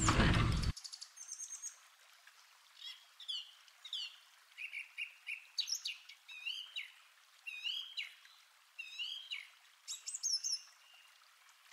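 Wild birds calling and singing: a string of short whistled chirps and slurred notes, some falling and some rising in pitch. A louder noise at the very start cuts off abruptly just under a second in, leaving only the birds.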